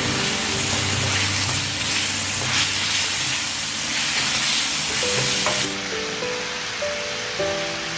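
Food sizzling and frying in a hot pan over background music; the sizzle drops away about two-thirds of the way through, leaving the music.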